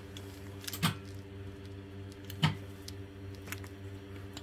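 A steady low hum runs throughout, with two sharp clicks, about one second in and again about two and a half seconds in.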